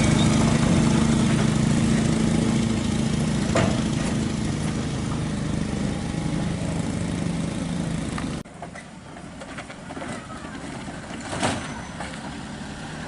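An engine running steadily, which stops abruptly about eight seconds in and gives way to a quieter stretch with a few sharp clicks.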